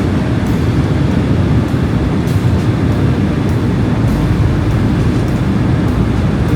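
Steady low cabin noise inside a Boeing 767 airliner descending toward landing: engine and airflow sound, even and unbroken.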